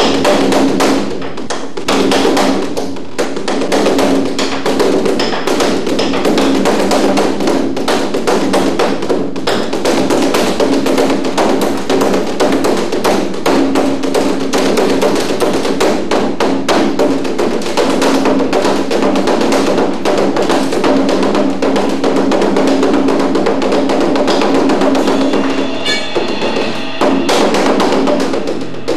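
Percussion music: fast, dense drum strikes with sharp wooden taps over a steady low held tone.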